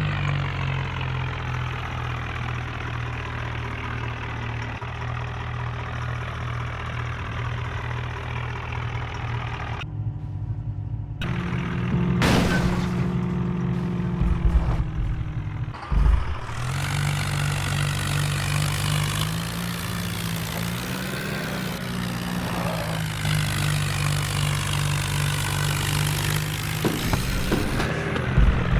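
Tractor diesel engine running under load, its pitch stepping up and down, with sudden breaks a third of the way and about halfway through where the sound jumps.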